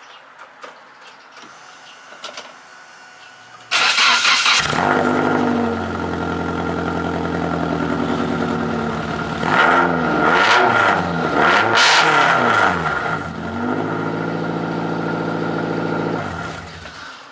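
Nissan 240SX's KA24DE four-cylinder with 248/248 cams running with no muffler. It starts about four seconds in, idles, is revved in several quick blips, then settles back to idle and shuts off just before the end. It sounds really bad.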